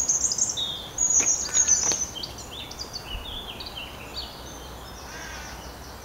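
Woodland birds singing: a busy run of high chirps and trills, loudest in the first two seconds and then thinning out, with a couple of faint clicks among them.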